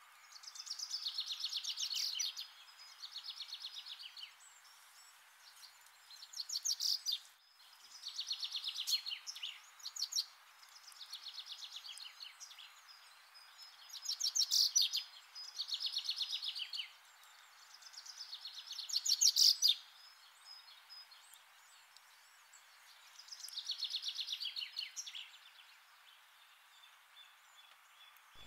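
High-pitched chirping trills from an animal, each phrase a rapid run of pulses lasting a second or two, repeated about ten times with short pauses, over a faint steady hiss.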